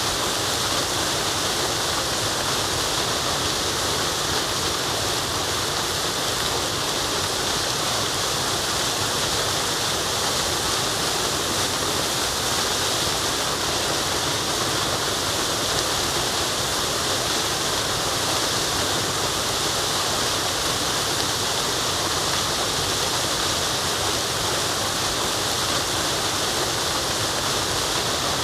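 Forest waterfall rushing steadily: an even, unchanging hiss of falling water, strongest in the high range.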